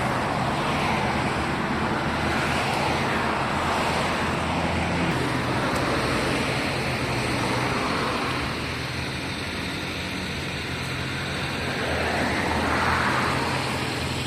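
Road traffic and car engines: a steady low engine hum with the noise of passing vehicles swelling and fading several times.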